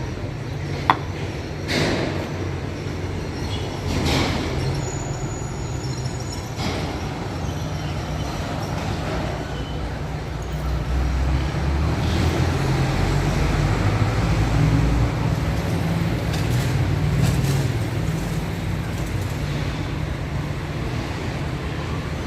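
City street traffic: a steady low rumble of passing cars and buses, with a few vehicles swelling past in the first seconds and a sharp click about a second in.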